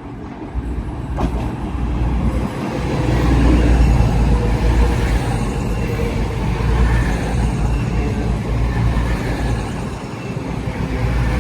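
A train passing, a steady heavy low rumble that builds over the first few seconds and is loudest about four seconds in.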